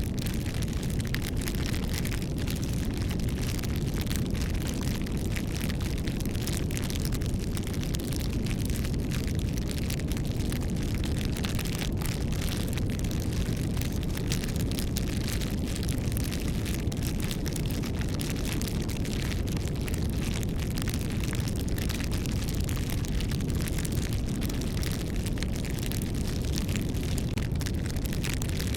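A wood bonfire burning, with many small crackling pops over a steady low rumble of the flames.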